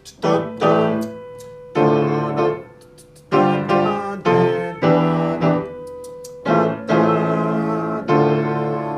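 Electric piano playing a highlife chord progression in C: a series of struck, decaying chords, some held and some played in quick pairs.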